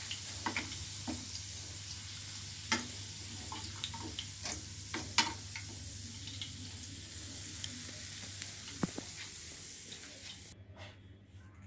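Chicken kofta frying in hot oil in a pan: a steady sizzle with scattered clicks and scrapes of a utensil against the pan. The sizzle cuts off suddenly near the end.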